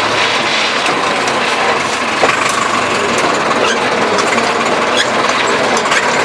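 Massey Ferguson tractor running steadily under load while working the soil, with a steady mechanical rattle and scattered sharp clicks from the machinery.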